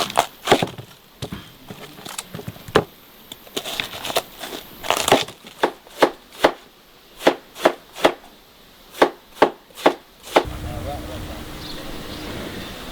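Chopping: a series of sharp, irregular blade strikes, roughly one to three a second, that stop about ten seconds in. After that a steady low hum and background noise take over.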